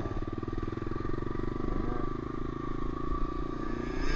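Honda CRF125F dirt bike's single-cylinder four-stroke engine running steadily while riding, heard from on the bike.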